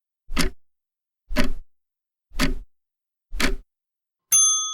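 Countdown clock ticking sound effect, four ticks a second apart, then a single bell ding near the end that rings on and fades: the cue that thinking time for the trivia question is up.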